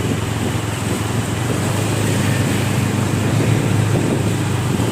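Motor vehicle on the road: a steady low engine hum under constant road and wind noise.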